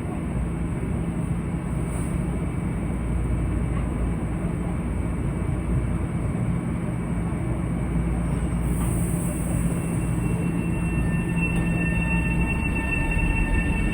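Metro-North commuter train rumbling along the tracks at a station platform. About ten seconds in, a steady high whine joins the rumble.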